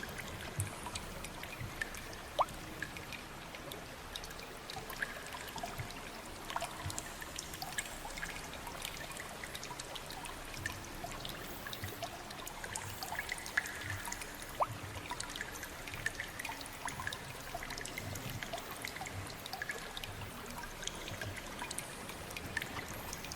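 Water trickling with many scattered drips and plinks falling at irregular moments inside a limestone river cave.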